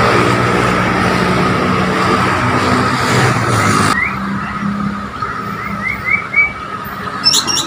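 Loud vehicle noise, an engine hum under road rumble, that cuts off suddenly about four seconds in. Several short rising bird chirps follow.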